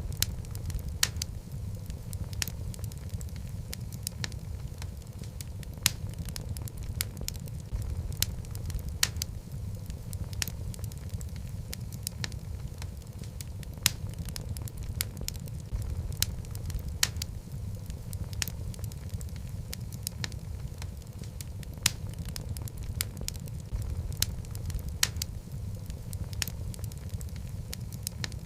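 Wood logs burning in a fireplace: a steady low rumble of flames with frequent sharp pops and crackles at irregular intervals.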